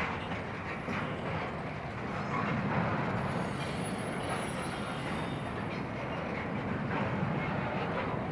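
Union Pacific intermodal freight train's cars rolling past with steady wheel-on-rail noise. A faint high-pitched squeal joins about three seconds in.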